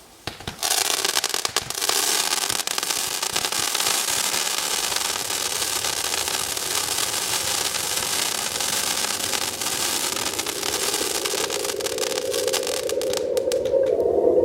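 Fireworks crackling: a dense, even crackle that starts suddenly about half a second in and keeps up steadily. A rising tone joins near the end.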